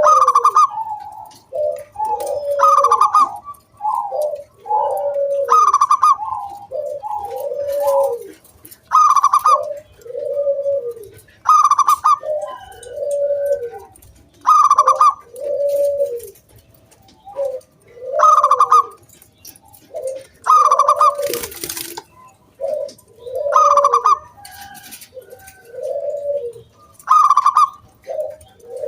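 Zebra dove (perkutut) singing its cooing song, the same phrase repeated about every three seconds: a higher opening note followed by a run of lower, rolling coos.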